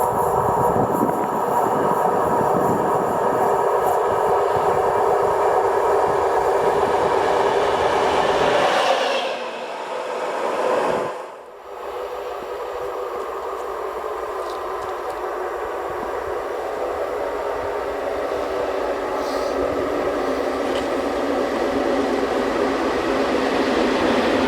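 A train passing at speed, with a loud, steady rolling rumble of wheels on rail. About halfway through the noise drops away briefly, then comes back and builds again.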